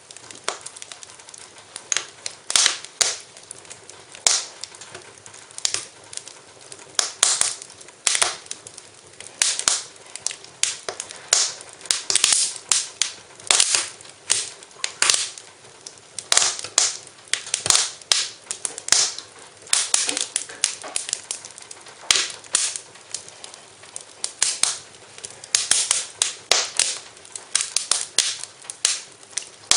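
Wood fire in a fireplace crackling, with frequent sharp, irregular pops and snaps over a faint steady hiss.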